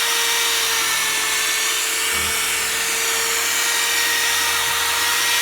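Electric drill running steadily with a sanding pad, wet-sanding a plastic headlight lens; a steady, high-pitched whine. The milky slurry coming off the lens shows the oxidised surface is still being cut away.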